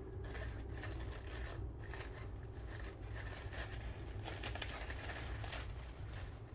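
Irregular rustling and scraping from sawdust being handled and worked onto a tumbler, over a steady low hum.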